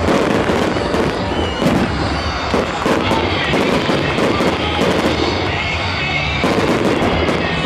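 Aerial fireworks bursting in quick succession, many sharp bangs and crackles, densest near the end, over music.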